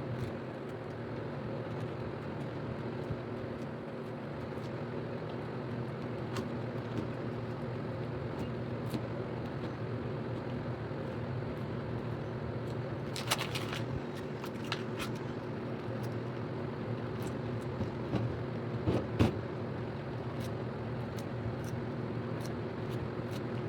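A steady low mechanical hum with a few short sharp clicks, the clearest about 13 and 19 seconds in.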